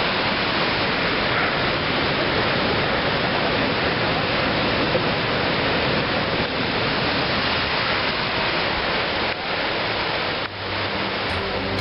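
A waterfall of more than 30 m pouring down, a steady, loud rush of falling water.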